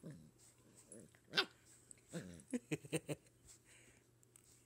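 A puppy giving a single sharp yip, then a quick run of short barks.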